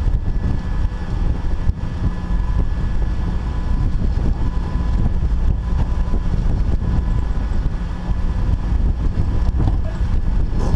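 Jeep driving off-road, its engine and drivetrain making a steady low rumble with a faint whine, and wind buffeting the microphone.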